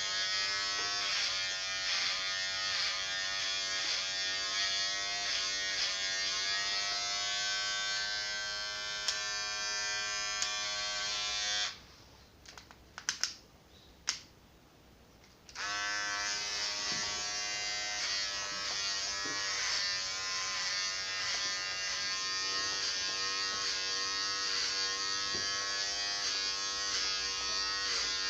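Electric clipper motor running with a steady buzz, its pitch dipping briefly about once a second as it takes load while cutting. It is switched off a little before the middle for about four seconds, with a few clicks, then switched back on.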